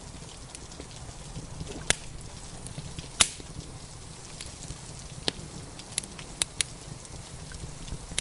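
Wood fire crackling in a fireplace: scattered sharp pops, the loudest about three seconds in, over a steady soft low rumble.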